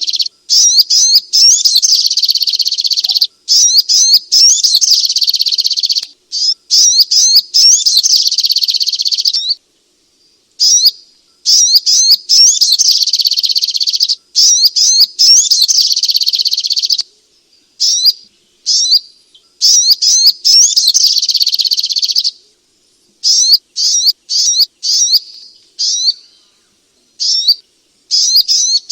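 Spiderhunter (sogok ontong) singing: long, fast runs of high chirping notes lasting a few seconds each with short pauses between, breaking into shorter separate phrases near the end.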